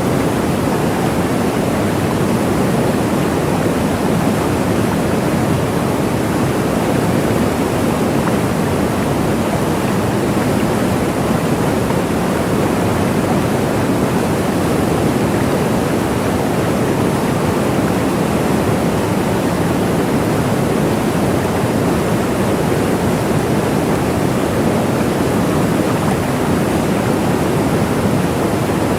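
Waterfall: a steady, unbroken rush of falling water, fuller in the low and middle range than in the highs, with no breaks or separate splashes.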